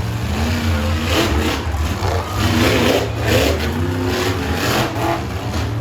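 Monster truck engine running and revving loudly, with its pitch rising and falling.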